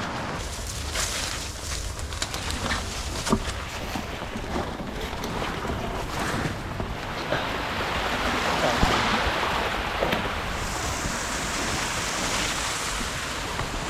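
Wind rushing over the microphone, swelling around the middle, with scattered sharp crunching clicks in the first half.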